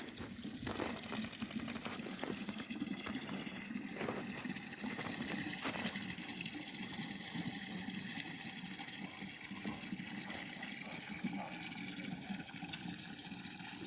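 Water running steadily, filling a bucket.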